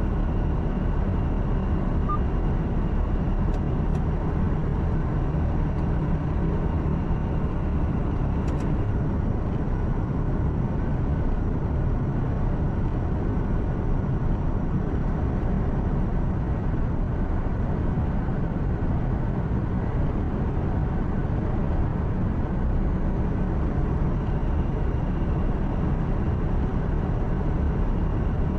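Steady low rumble of a truck's engine and tyres heard from inside the cab while cruising, with no change in speed.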